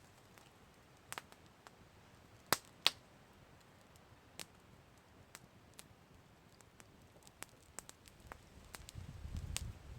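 Campfire crackling: scattered sharp pops and snaps, the two loudest close together about two and a half and three seconds in. A low rumble builds in the last second or so.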